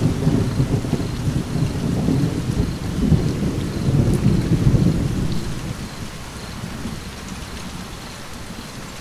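Steady rain with a roll of thunder that rumbles in at the start, swells in the middle and dies away about six seconds in, leaving the rain alone.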